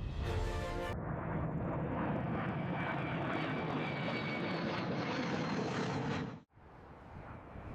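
Airplane engine running steadily. It cuts off abruptly about six and a half seconds in, then a quieter engine sound comes back and grows.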